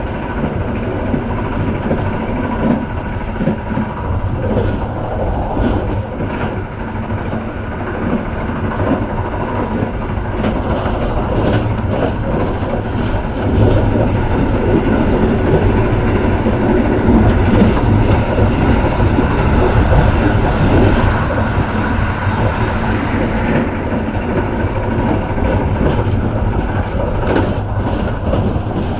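Argo Bromo Anggrek passenger train running, heard from on board: a steady rumble with scattered clicks and knocks from the wheels on the track, growing a little louder about halfway through.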